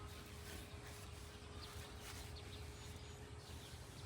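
Faint outdoor background: a few faint, short bird chirps over a steady low hum.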